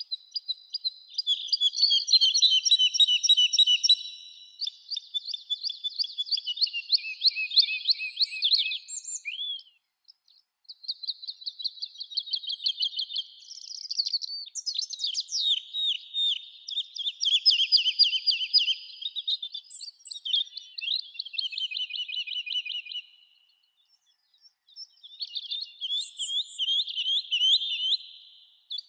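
Songbird singing long, fast-paced phrases of high chirps and trills, with brief pauses about ten seconds in and again near twenty-four seconds.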